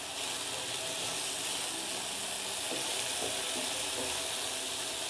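Diced chicken, onion and garlic sizzling steadily in olive oil in a frying pan, stirred with a wooden spoon.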